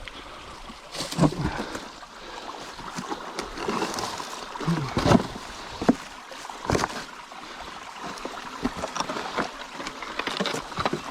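A person climbing down a steep rock slope: feet and hands scuffing and scraping on rock and leaf litter, with irregular knocks and thumps as each foothold is taken.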